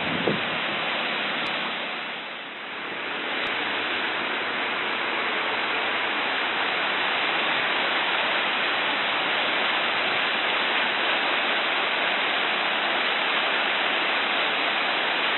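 Steady rush of floodwater pouring down a stream swollen by a dam burst, dipping briefly about two seconds in and then holding level.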